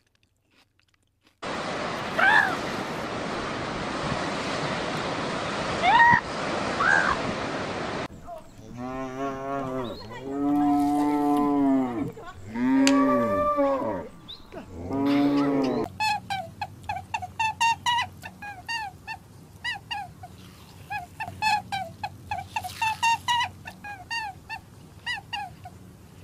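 Cattle mooing: several long, deep moos one after another in the middle. Before them steady outdoor noise with a few short chirps; after them a long run of quick, high chirping calls.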